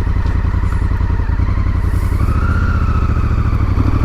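Honda Africa Twin's parallel-twin engine running at low road speed, its note picking up a little about halfway through.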